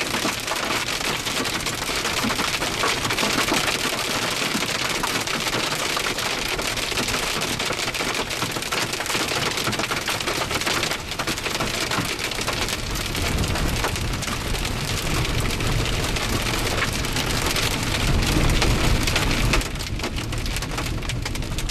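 Heavy rain mixed with hail pelting a surface, a dense steady patter of fine ticks. A deep rumble of thunder builds about two-thirds of the way through and cuts off abruptly near the end.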